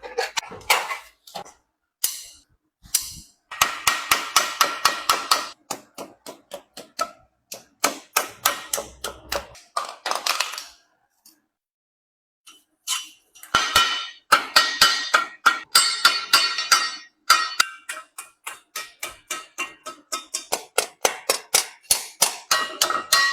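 Hand hammer striking brass sheet, ringing metallic blows in quick runs of several strikes a second, with a pause of about two seconds midway.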